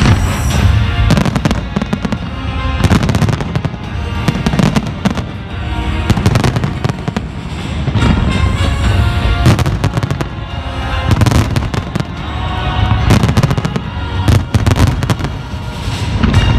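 Fireworks display: many shells bursting in irregular cracks and bangs, some in quick clusters, over loud music.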